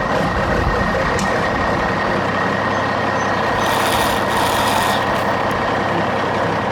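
Steady truck-engine sound from an RC dump truck, with a brief air hiss about four seconds in.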